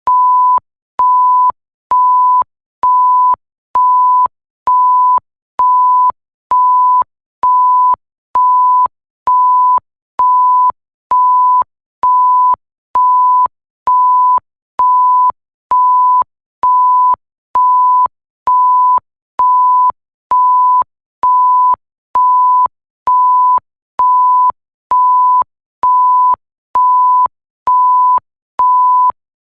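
Electronic bleep tone repeating at an even rhythm: one steady high pitch, each beep about half a second long with short gaps, a little more than one beep a second.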